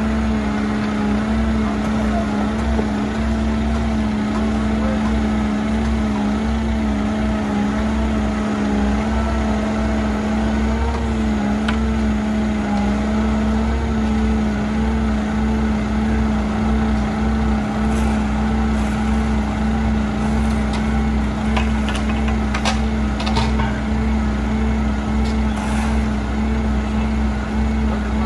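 Heavy diesel paving machinery running steadily with a constant drone and low rumble, with a few sharp metallic clicks and clanks in the second half.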